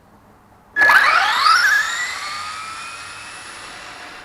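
Brushed Traxxas Titan 12-turn electric motor of an RC drag car launching at full throttle. A sudden high whine starts about a second in and rises steeply in pitch as the car accelerates, then levels off and fades as it speeds away.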